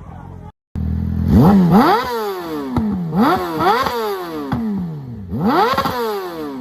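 Yamaha R6 sport bike's inline-four engine revved in several sharp throttle blips through an aftermarket exhaust, each rising steeply in pitch and falling back before the next. The sound breaks off briefly about half a second in.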